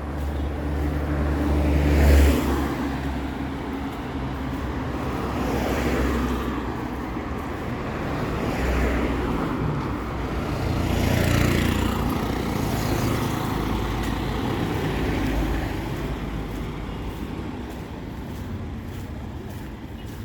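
Street traffic: several motor vehicles passing one after another, engine rumble and tyre noise swelling and fading with each pass. The loudest pass comes about two seconds in.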